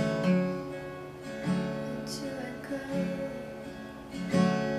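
Acoustic guitar playing chords of a slow song, with a new chord struck about every second and a half, in a pause between sung lines.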